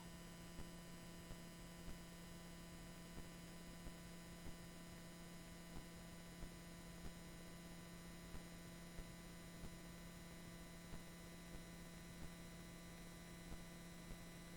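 Near silence: a faint, steady electrical mains hum with a few thin steady tones above it, and faint ticks every second or so.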